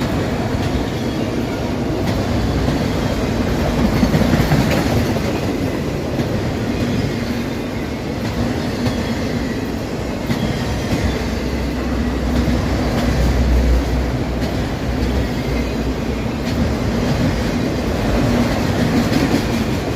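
Empty autorack rail cars of a long freight train rolling past: a steady rumble and clatter of steel wheels on the rails, heaviest low down about halfway through.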